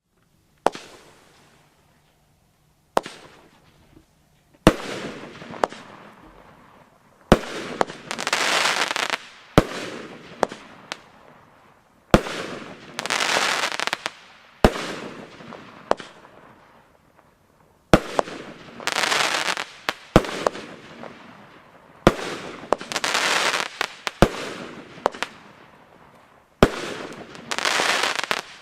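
Small consumer firework battery (cake) in a moulded Pyromould casing firing its shots one after another, about one every two seconds. Each shot is a sharp bang, followed by a burst of noise lasting a second or two.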